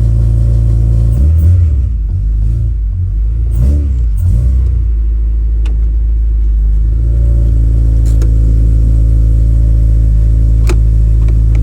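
Car engine idling, revved a few times between about one and four and a half seconds in, then settling back to a steady idle. A few faint clicks are heard in the later part.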